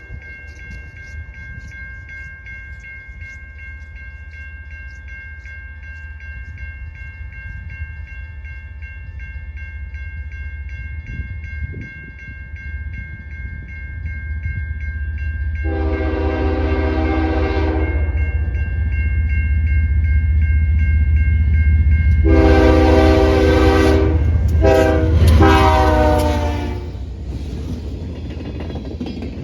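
Train sounding its multi-chime air horn in the grade-crossing pattern: long, long, short, long. The last three blasts come in quick succession near the end. A low locomotive rumble builds as the train draws near, and a crossing bell rings steadily beneath it at the start.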